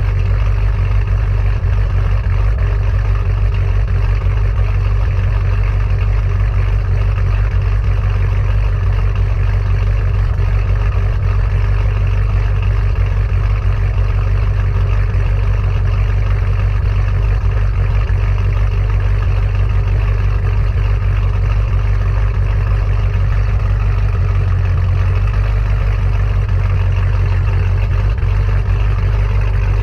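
2014 Camaro SS's LS3 6.2-litre V8 idling steadily through Kooks long-tube headers and a Borla ATAK cat-back exhaust, giving a steady, low exhaust note.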